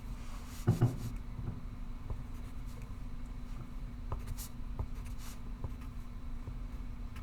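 Pencil writing on paper: short scratching strokes and light ticks, with a low thump just under a second in. A steady low hum runs underneath.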